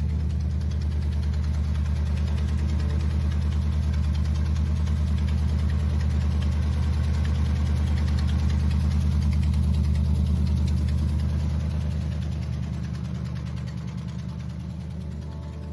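Hot rod engine of a 1934 Ford Coupe idling with a steady, rapid low pulse, fading away over the last few seconds.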